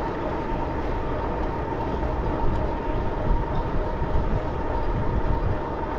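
Steady rumble and noise of a bicycle on the move, mostly wind on the microphone and tyres on pavement, with a faint steady whine throughout.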